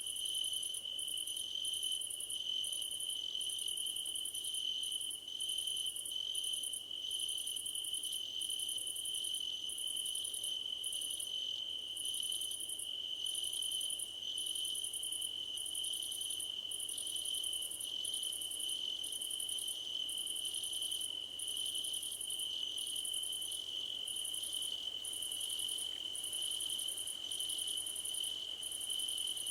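Crickets singing: one steady unbroken high trill, with a higher-pitched chirping over it in quick repeated pulses, one to two a second, that keeps a regular rhythm throughout.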